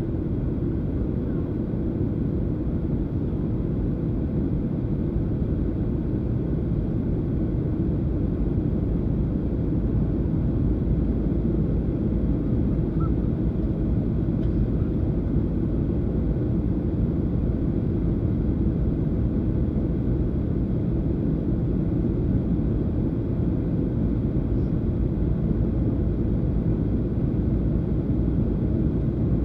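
Boeing 737-800 cabin noise in flight: a steady low rumble of engine and airflow, with a faint steady hum.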